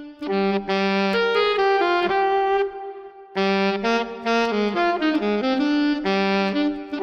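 Solo saxophone playing a slow jazz melody of held notes, breaking off briefly near the middle before the phrase resumes.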